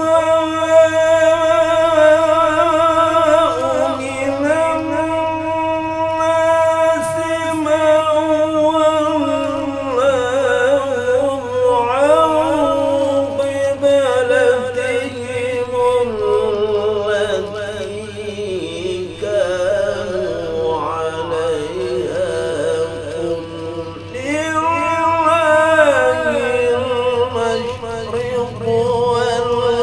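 A man chanting Quranic recitation in the Saba maqam (irama Saba), holding long notes and drawing them out in winding, wavering melismatic ornaments.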